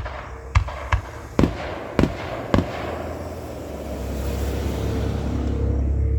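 Fireworks display: six sharp bangs in quick succession over the first two and a half seconds, then a hiss that swells through the second half.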